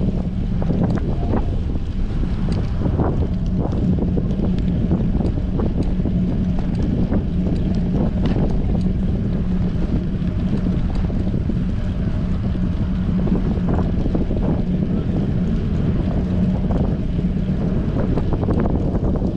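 Strong wind buffeting an action camera's microphone on a moving bicycle. There is a steady low hum underneath, with scattered light clicks and knocks throughout.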